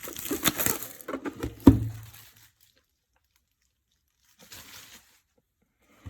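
Plastic packaging being crinkled and torn open by hand, with a sharp knock about one and a half seconds in. After about two and a half seconds the sound stops, apart from a short faint rustle later.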